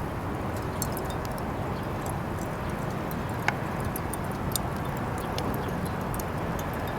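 Fire crackling in a Uniflame Fire Grill fire stand: scattered sharp pops and snaps over a steady low rushing noise. One short rising chirp about three and a half seconds in.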